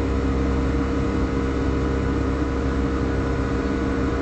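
Steady cabin drone of a Boeing 757 in flight: engine hum and rushing airflow, with a few constant low tones.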